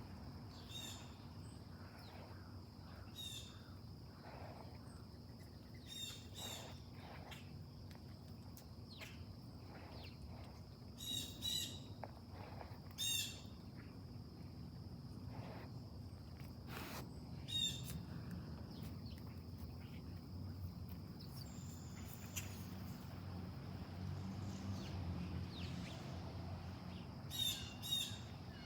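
Wild birds giving short, sharp calls, often two or three in quick succession, over a steady high-pitched drone like insects and a faint low rumble.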